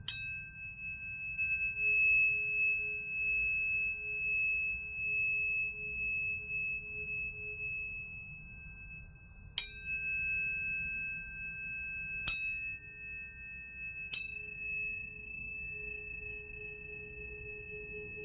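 Planetary tuning forks struck four times, once at the start and then three times close together past the middle. Each strike is a bright metallic ping whose high overtones fade within a second or two, while a clear steady tone keeps ringing underneath, with a fainter lower hum.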